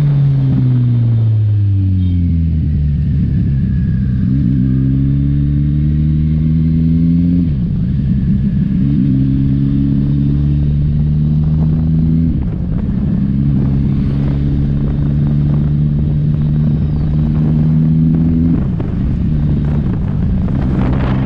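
Kawasaki Ninja 1000's inline-four engine under way. Its pitch falls as the bike slows at first, then climbs gently through the gears, with three upshifts about five seconds apart, each heard as a sudden drop in pitch.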